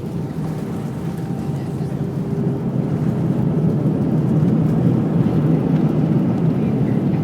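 Airbus A320 heard from inside the cabin during landing: a steady low rumble of engines and airflow that grows louder about three seconds in and stays loud.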